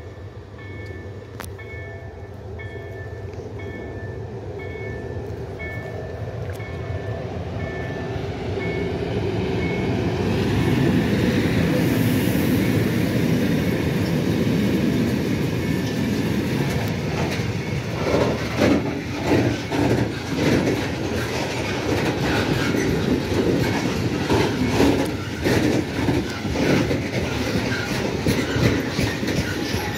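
Freight train of flatcars carrying tracked armoured vehicles, hauled by an electric locomotive, approaching and passing close by. Its rumble grows louder over the first ten seconds, and from a little past halfway the wagon wheels click over the rail joints in an uneven beat as the loaded flatcars roll past.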